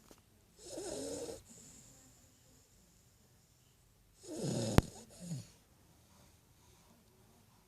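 Great Dane puppy snoring in its sleep: two snores, one about a second in and a longer one a little past four seconds in. A single sharp click falls in the middle of the second snore.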